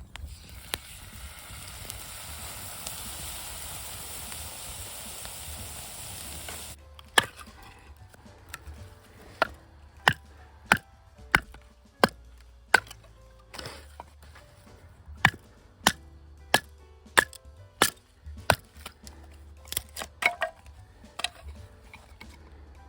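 A steady hiss that cuts off suddenly about seven seconds in, followed by a run of sharp chopping strikes, roughly one to one and a half a second, in two or three bursts: a hatchet splitting firewood.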